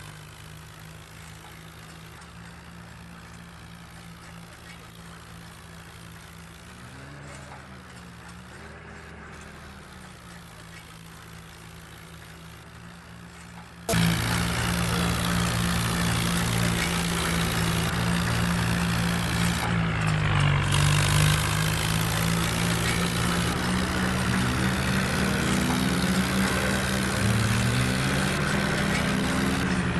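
Swaraj 855 tractor's three-cylinder diesel engine running steadily, its pitch dipping and rising now and then as the revs change. About fourteen seconds in, the sound suddenly becomes much louder and noisier.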